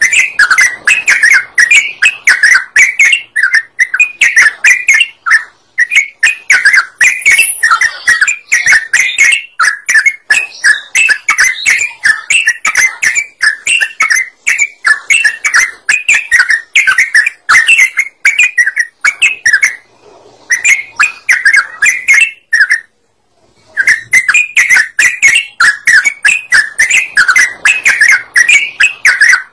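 Yellow-vented bulbul (trucukan) singing a loud, lively song of quick bubbling chirpy phrases in near-continuous runs, with a couple of brief pauses in the latter half. It is a lure song meant to draw other birds in.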